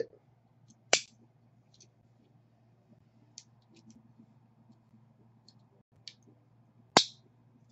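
Two sharp clicks about six seconds apart, with faint scattered small ticks between them.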